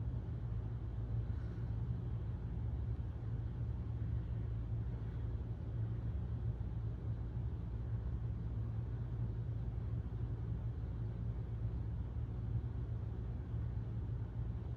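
Hunter Builder ceiling fan running steadily: an unbroken low hum with a soft rush of moving air.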